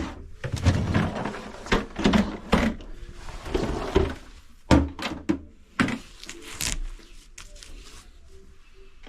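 A string of knocks and clunks as a sink cabinet is opened and things under the sink are handled, the sharpest knock about halfway through.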